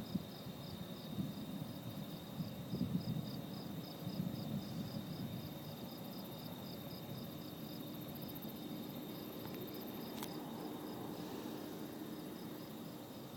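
Crickets chirping: one in an even pulse of about three chirps a second over another's continuous high trill. A low rumbling sits underneath, strongest in the first few seconds.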